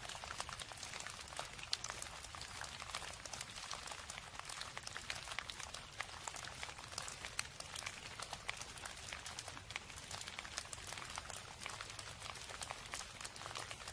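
Steady rain falling: a dense, even scatter of small drop impacts that neither builds nor eases.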